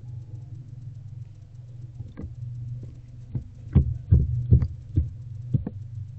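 Barn owlet moving about in a nest box while eating a rodent: a run of about seven knocks and thumps, loudest in the middle, over a steady low hum.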